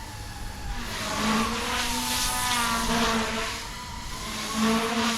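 GooSky E2 electric RC helicopter in flight in idle-up 1, its rotor and motor whine rising and falling in pitch and loudness as it manoeuvres.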